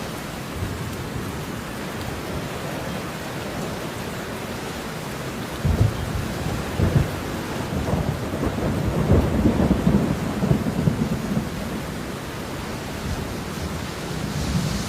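Steady rain with a roll of thunder: low rumbles start about six seconds in, swell and fade out by about twelve seconds.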